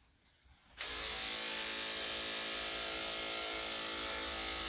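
Electric dog grooming clippers fitted with a #7 blade, switched on about a second in and then running steadily at one pitch.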